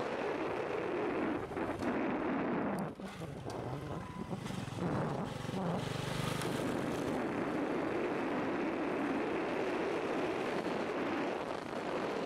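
Small motorcycle engine running while riding, with wind buffeting the microphone.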